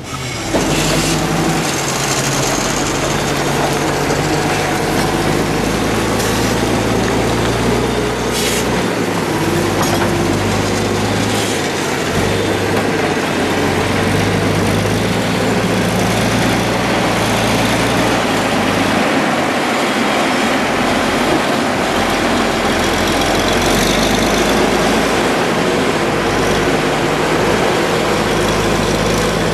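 A large engine running loudly and steadily under a constant noisy rush, its pitch shifting up and down a few times.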